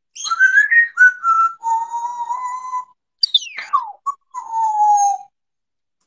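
A parrot whistling a tune: a short rising phrase, a long steady note, a quick swoop falling from high to low, then a long note sliding slightly down.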